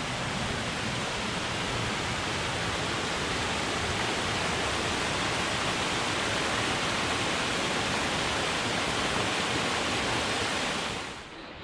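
Steady rush of flowing water from a mountain creek, an even hiss that drops away suddenly near the end.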